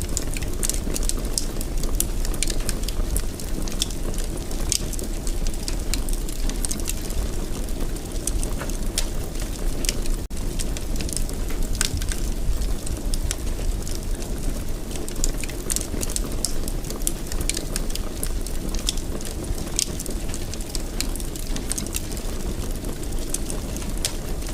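Wood fire burning in a fireplace: a steady low rumble with frequent small crackles and pops scattered irregularly throughout.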